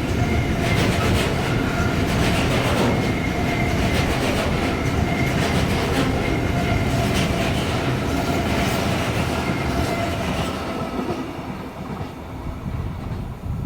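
A train passing at speed, its wheels clicking over the rail joints with a steady whine underneath. The sound fades as the train draws away over the last few seconds.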